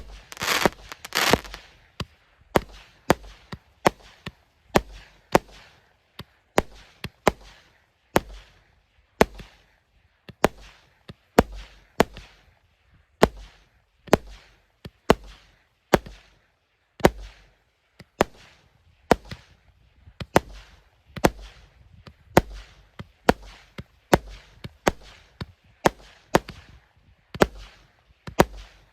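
A 150-shot fireworks cake firing shot after shot, about one and a half bangs a second, each sharp report trailing off into a short hiss. A denser, crackling cluster of bursts comes in the first second or so.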